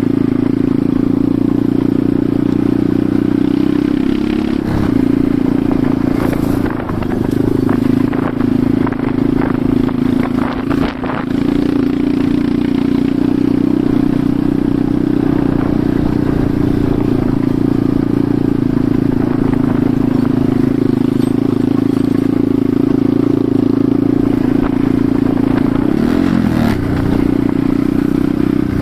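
Enduro motorcycle engine running steadily while riding, with a cluster of clattering knocks between about 6 and 11 seconds in and a brief change in engine pitch near the end.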